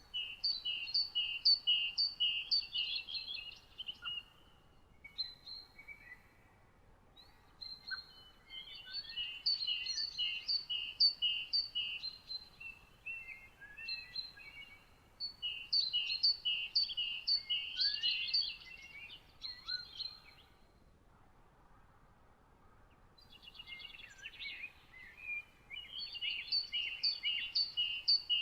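A songbird singing the same phrase four times, each a quick run of evenly repeated double notes lasting about three to four seconds, with pauses of a few seconds between phrases. Scattered short chirps fill the gaps.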